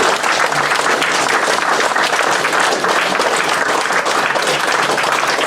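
A roomful of people applauding, dense steady clapping throughout.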